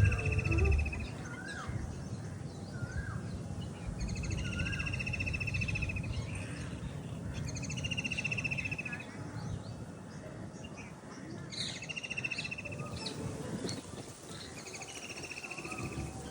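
Park birds calling: one bird repeats a buzzy trill of about a second and a half roughly every four seconds, with shorter chirps from other birds in between. A steady low rumble of background noise runs underneath.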